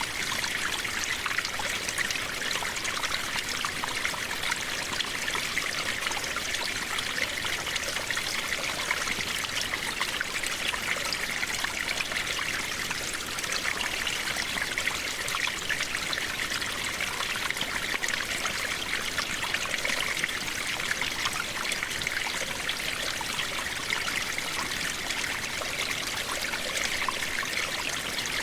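Steady rain falling, a continuous even hiss of many small drops, with no thunder.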